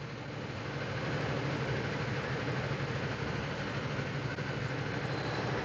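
Steady cabin noise of a vehicle driving along a road: road and tyre noise with a low engine hum underneath.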